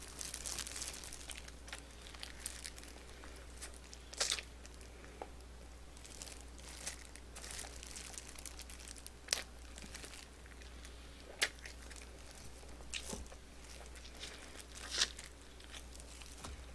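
Close-up eating of dakgangjeong (sweet-glazed fried chicken) held in a plastic-gloved hand: crunching bites and chewing with scattered crinkles and clicks, and a handful of sharper snaps spread through.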